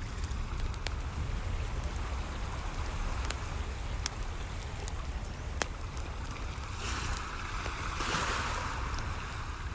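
Waves washing in steadily over a low rumble, one wave swelling and breaking loudly about seven seconds in, with the scattered sharp pops and crackles of a wood fire burning.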